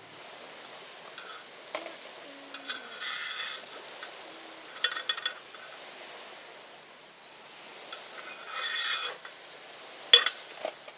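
A utensil scraping and stirring in a cooking pan, in several short bursts, with a few sharp clinks; the loudest clink comes about ten seconds in.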